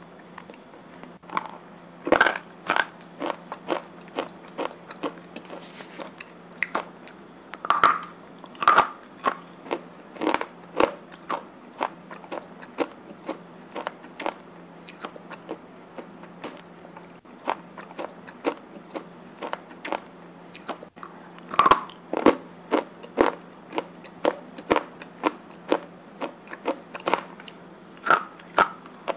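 Slate pencils being bitten and chewed, with sharp crunches about two a second and a few louder clusters of bites, over a steady low hum.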